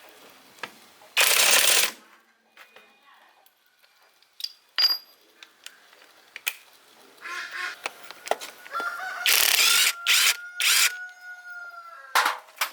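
Several short, loud bursts of hissing noise and scattered tool clicks. Over the second half a rooster crows, one long drawn-out call that falls slightly in pitch.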